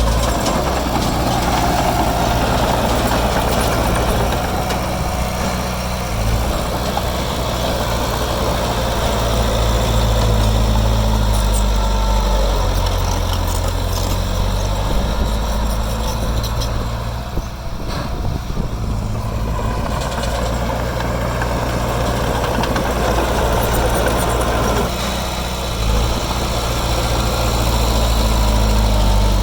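Heavy diesel engine of earthmoving machinery running, its pitch and load shifting every few seconds, with a few faint clicks.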